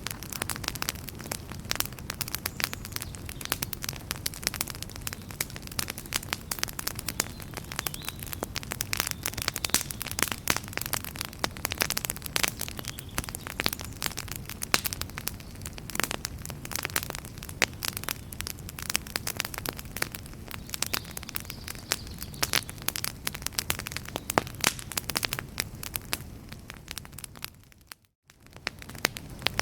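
Campfire crackling steadily, a dense run of sharp pops and snaps over a low rumble of the flames. Near the end the sound fades and cuts out for a moment, then resumes.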